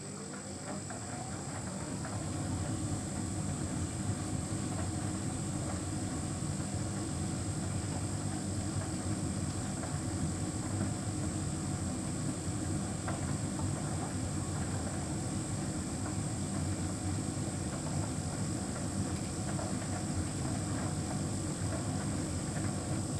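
Hotpoint heat pump tumble dryer running: a rising whine as the motor spins up over the first couple of seconds, then a steady mechanical rumble of the turning drum with a faint high whine.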